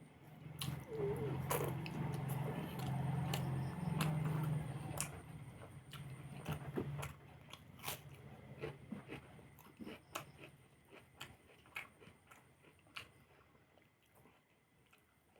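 A person chewing and biting food close to the microphone, with crunchy bites and sharp mouth clicks. The sounds are busiest in the first half and grow sparser and fainter toward the end.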